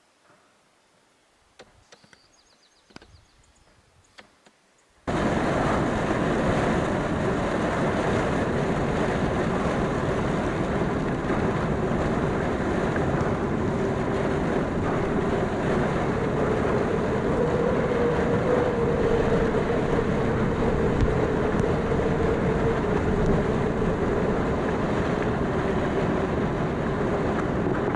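Near quiet with a few faint clicks, then about five seconds in a sudden cut to strong wind blowing steadily, rumbling on the microphone, with a faint moaning tone through it.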